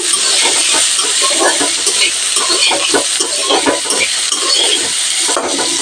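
Cubed eggplant sizzling in hot mustard oil in a metal kadai, with a steady hiss, while a metal spatula stirs the pieces, scraping and clicking against the pan many times.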